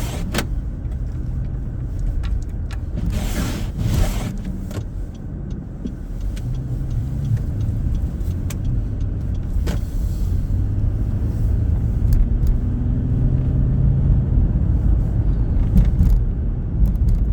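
Car driving: steady low road and engine noise, the engine tone rising slightly partway through, with a brief louder rush about three seconds in.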